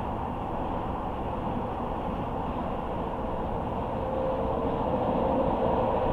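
A car driving at road speed: steady tyre and road noise. About four seconds in, a faint hum comes in and the noise grows a little louder.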